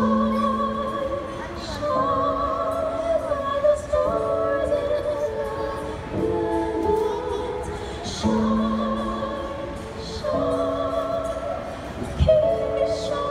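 Two female singers performing a song, with long held notes and vibrato, over musical accompaniment.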